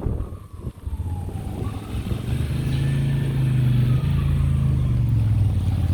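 A large motor vehicle's engine running close by: a steady low hum that swells about two seconds in and holds. Heavy rain and wet street traffic hiss underneath.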